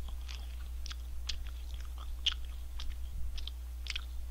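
A person chewing food with the mouth open to the sound: irregular small crunches and clicks, roughly two a second.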